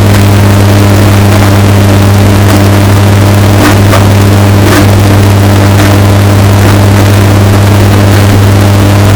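Washing machine running: a steady low motor hum with a few faint knocks around the middle, bass-boosted and overdriven to the point of distortion.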